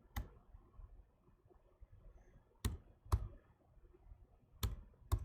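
Computer mouse clicking: five sharp clicks, two of them paired about half a second apart, as chess moves are made on screen.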